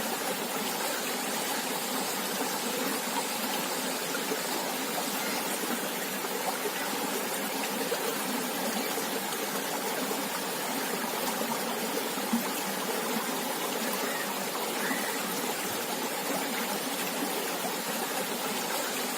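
River water flowing over rocks: a steady rushing and babbling with no pauses.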